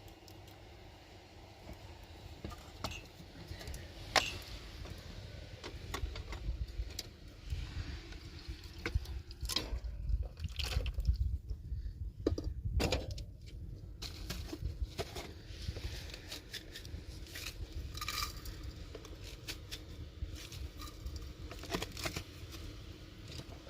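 Scattered clicks, knocks and scrapes of handwork, sharpest about four seconds in and clustered near the middle, over a low rumble of wind on the microphone.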